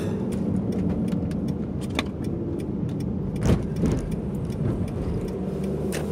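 Car running with a steady low rumble, overlaid with scattered light clicks and rattles and one louder knock about three and a half seconds in.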